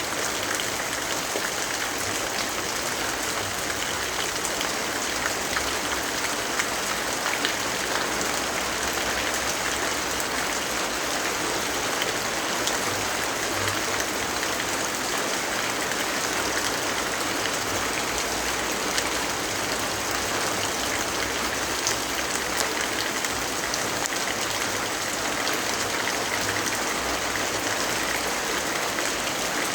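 Steady rainfall: an even hiss of rain with scattered faint drop ticks, unchanging throughout.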